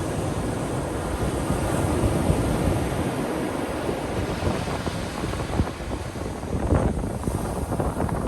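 Ocean surf breaking and washing up a beach, with wind rumbling on the microphone. The wash turns rougher and fizzier near the end.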